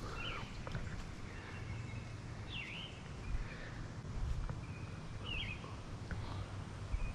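A bird calling about every two to three seconds, each call a short chirp that dips down and back up in pitch, over a low background rumble.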